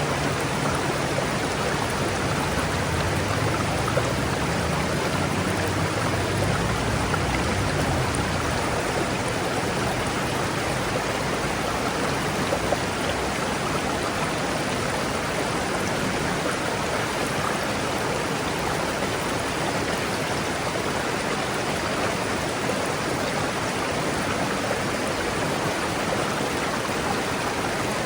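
A river rushing over rocks, a steady full-bodied flow of water.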